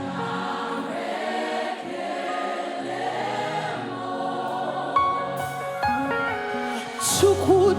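Live gospel worship music: a choir singing held chords over the band, the chord changing a few times. A solo voice comes back in near the end.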